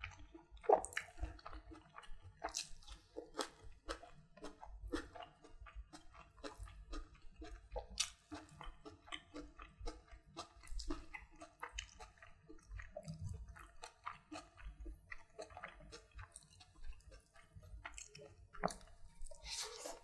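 Close-miked chewing of food, with quick, irregular wet smacks and clicks of the mouth several times a second.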